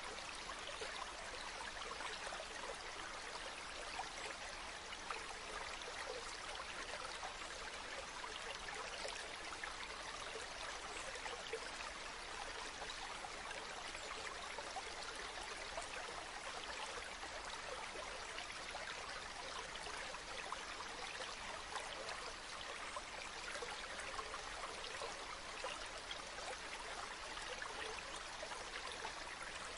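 Waterfall water falling and splashing: a steady rushing hiss with small splashes now and then.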